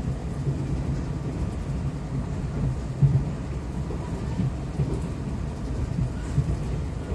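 Low, steady rumble of a passenger train running along the track, heard from inside the carriage, with one brief louder knock about three seconds in.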